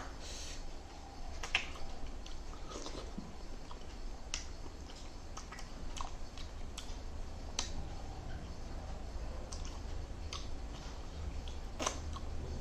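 Close-miked eating sounds: a person chewing and biting food, with irregular sharp clicks and smacks.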